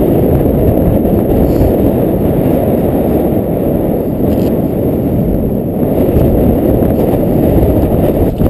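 Husqvarna dirt bike's engine running at idle, loud and steady, then cutting off abruptly at the very end.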